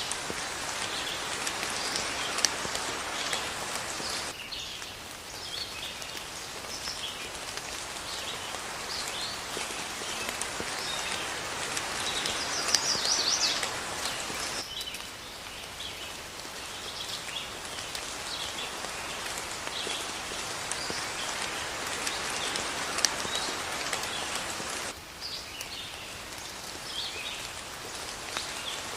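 Steady rain falling, with birds chirping and singing over it throughout. The rain's texture shifts abruptly a few times, like joins in a looped recording.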